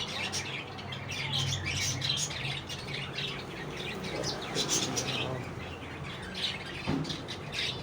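Many caged birds chirping rapidly and continuously, with short high calls overlapping one another, over a steady low hum.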